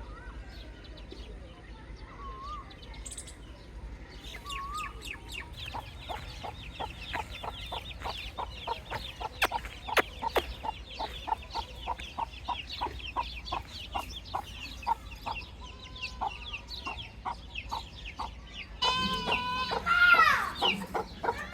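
Baby chicks peeping: from about four seconds in, a dense run of short, high chirps that fall in pitch, several a second. Near the end, louder, lower calls join in.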